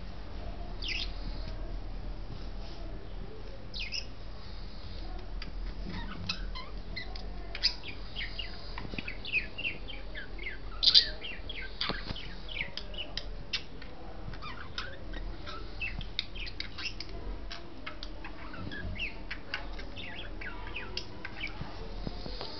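Budgerigars chirping: many short, quick chirps, a few at first and then a busy stream of them, the loudest about eleven seconds in. A steady low hum runs underneath.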